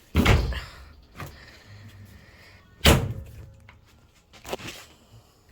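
The cabinet panel of an LG front-load washer being popped open: two loud thumps about three seconds apart, with a few lighter knocks in between.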